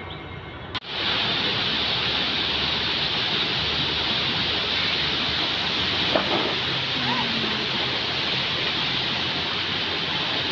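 Fast-flowing river water rushing steadily, a loud even roar of water, starting abruptly about a second in as background music cuts off.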